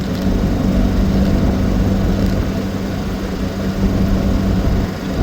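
Austin 7's small side-valve four-cylinder engine running steadily on the road, a constant engine hum over low road and drivetrain rumble.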